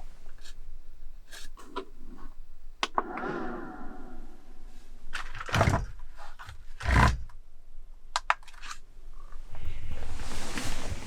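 A string of knocks and clicks from objects being handled, with a short creaking scrape about three seconds in, two heavier thumps around the middle, and a burst of rushing, rustling noise near the end.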